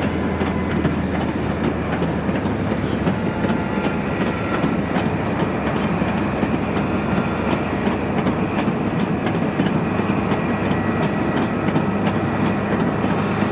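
A passing train: a steady rumble of the train running on the track, with wheels clicking over the rail joints in a run of short clicks through the second half.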